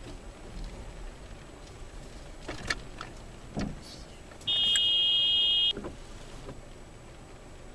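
Low steady vehicle noise with a few faint knocks, broken about halfway through by a loud, steady high-pitched tone that lasts about a second and cuts off abruptly.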